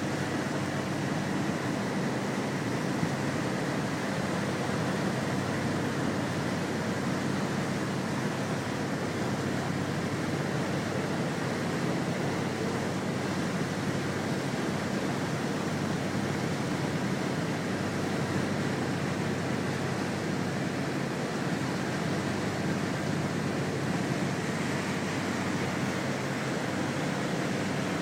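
Sea Ray motorboat running steadily underway: a constant engine drone mixed with the rush of water and wind on the microphone.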